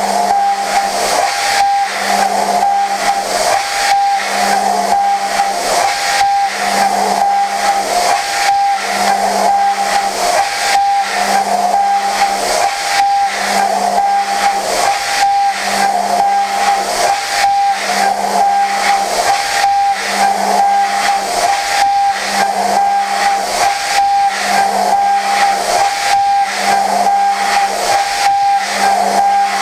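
Okuma GENOS M560V vertical machining center high-speed milling prehardened 4140 steel with a Sandvik Coromant cutter: a steady high cutting tone over a constant hiss, with a lower hum that swells and fades about every two seconds.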